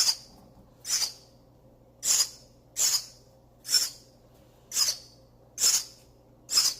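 Baby bird's harsh, hissing begging calls, about one a second and eight in all: the bird is hungry and begging to be fed.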